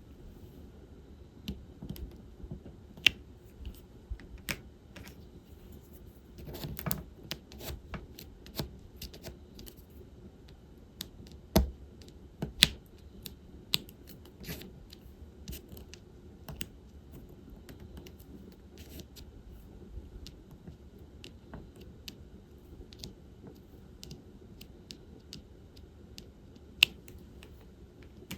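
Irregular small clicks and taps of diamond-painting work: a drill pen picking up and pressing resin drills onto the canvas and tapping against plastic bead trays. A short scratchy patch comes about seven seconds in, and a few clicks stand out much louder than the rest.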